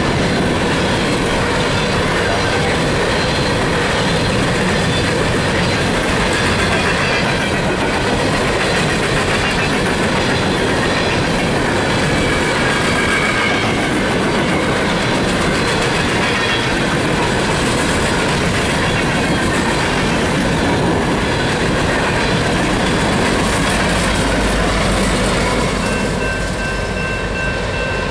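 Empty BNSF coal train rolling past at speed: a steady rumble with wheel clatter over the rail joints and faint wheel squeal. Near the end the noise eases slightly and a steady high tone comes in.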